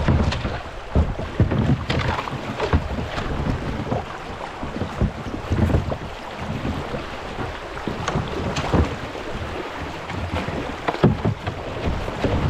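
Kayak hull bumping and scraping along the creek bed in shallow running water, with irregular knocks and thuds over a steady rush of water: the boat is bottoming out where the water is too shallow to float it.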